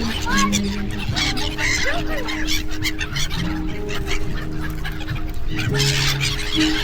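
Gulls calling again and again in short honking squawks, over held low notes of music that step from one pitch to another.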